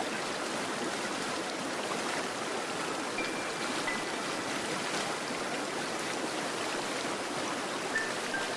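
Stream water flowing steadily over rocks, with a few brief high-pitched notes over it about three seconds in and near the end.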